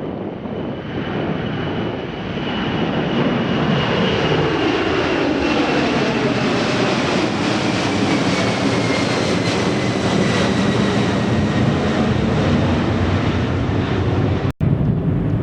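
Jet airliner taking off past the runway, its engines rising to a loud, steady roar. A high engine whine falls slowly in pitch as the aircraft goes by.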